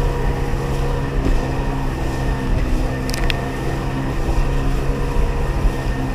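1994 Sea-Doo XP personal watercraft's 80 hp two-stroke engine running steadily at cruising speed, with a brief pair of clicks about three seconds in.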